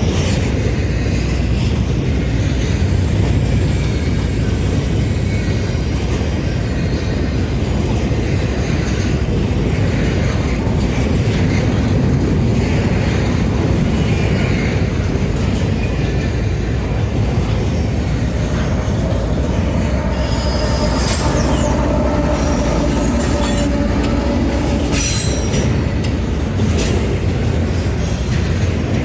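A train passing close by with a loud, steady rumble of wheels on rail. In the later part the wheels squeal against the rails, with high screeches on top of the rumble.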